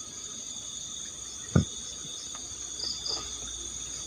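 Night chorus of crickets: a steady, high-pitched, many-layered trilling. A single dull thump about a second and a half in stands out above it, with a few faint light knocks after.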